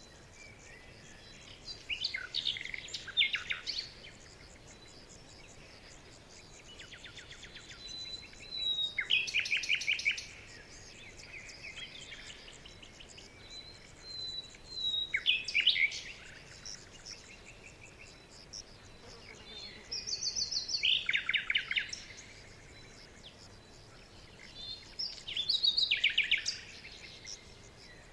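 Forest birdsong: songbirds singing short phrases of quick, high notes every five or six seconds, with fainter chirps between them over a soft steady hiss.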